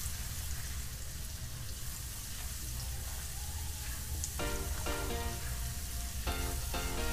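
Ground spices and ginger-garlic paste sizzling in hot mustard oil in a kadhai, stirred with a wooden spatula, a steady frying hiss.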